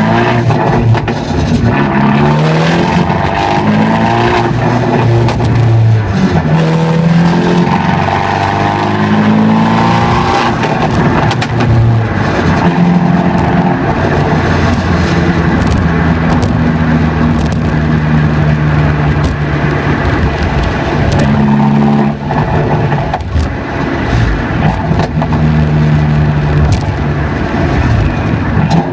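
Abarth 124 Spider's turbocharged 1.4-litre four-cylinder engine running through an aftermarket Record Monza exhaust with Ragazzon front pipe and A.R.U downpipe, with a thick, deep note. The engine pitch rises and falls repeatedly, holds steady for several seconds in the middle, drops briefly about twenty-two seconds in, then climbs again.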